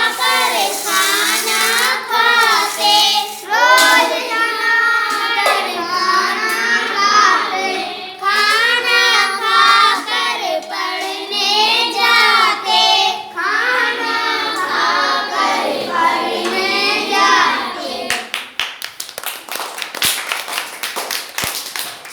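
A high, child-like voice singing a children's rhyme, stopping about eighteen seconds in. It is followed by a rapid run of sharp hand claps.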